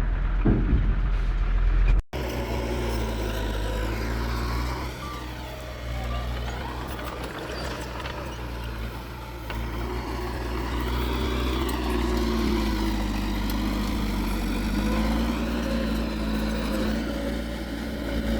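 Heavy diesel earthmoving machinery running, its engine pitch rising and falling as it works. There is an abrupt cut in the sound about two seconds in.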